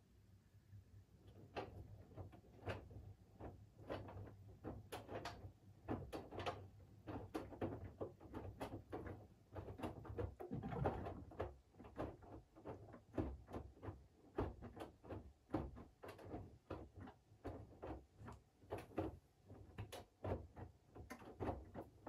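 Siemens iQ700 front-loading washing machine tumbling its wash load: laundry and water slosh and drop in the turning drum as many irregular soft knocks over a low motor hum. It picks up about a second and a half in and stops at the end.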